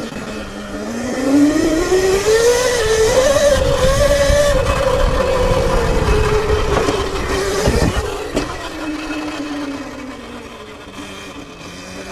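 Sur-Ron electric dirt bike's motor whining, rising in pitch as it accelerates, holding, then easing off, over a low rumble. A sharp knock about eight seconds in, after which a fainter whine sinks lower.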